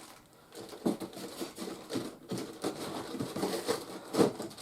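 Packaging rustling and plastic toy parts being handled in irregular short clicks and crinkles, with one sharper click near the end.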